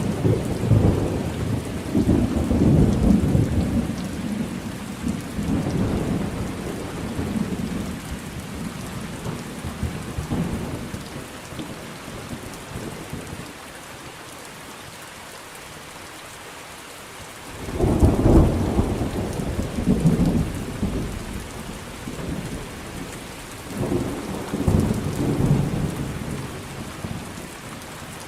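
Steady rain with rolling thunder. A long rumble dies away over the first ten seconds or so, and after a lull of rain alone a new peal breaks suddenly about 18 seconds in and rolls on, with another rumble near the end.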